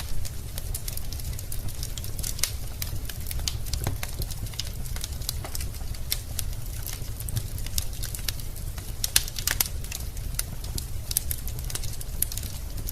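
Wood fire burning in a fireplace: irregular crackles and pops of burning logs over a steady low rumble.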